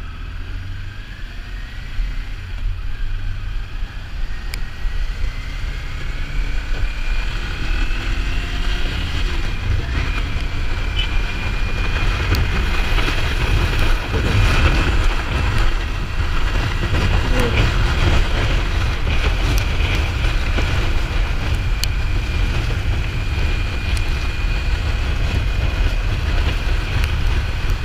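Kawasaki Ninja 400 parallel-twin engine under way at riding speed, its pitch climbing over the first several seconds and then holding steady, with wind rush on the helmet microphone growing gradually louder.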